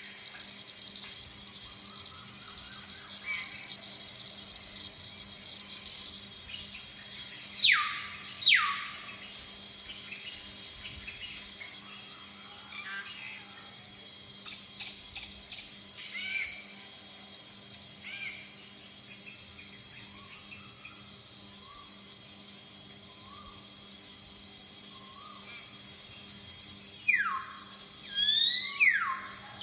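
Dense night chorus of crickets or katydids, a steady high-pitched pulsing buzz. Over it, faint scattered chirps and a few calls that sweep sharply down in pitch: a pair about eight seconds in and another cluster near the end.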